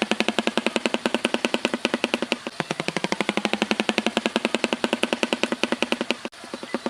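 An animal's rapid pulsed trill: a long buzzing call of even, quick pulses, about a dozen a second, breaking off briefly near the end.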